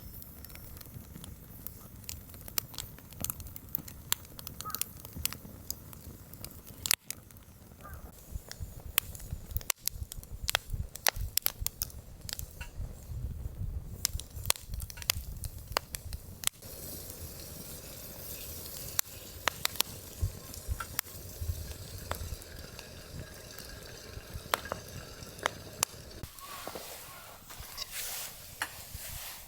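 Campfire crackling as pine kindling and small twigs catch: irregular sharp pops and snaps over a low steady rumble.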